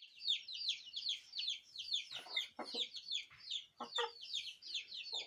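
Chickens clucking in a few short bursts over a continuous, rapid high-pitched chirping of birds, about five or six chirps a second.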